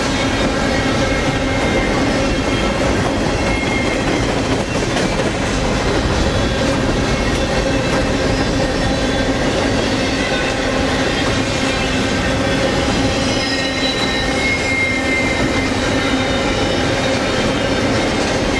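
Double-stack container train's well cars rolling past close by: a steady, loud rumble of steel wheels on rail, with a few brief high-pitched wheel squeals.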